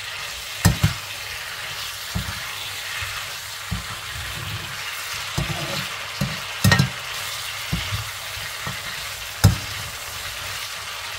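Lamb pieces and sliced onion sizzling as they stir-fry in a wok, with a steady hiss. A metal slotted spoon scrapes through the pieces and knocks sharply against the pan several times, the loudest knocks about half a second in, in the middle, and a couple of seconds before the end.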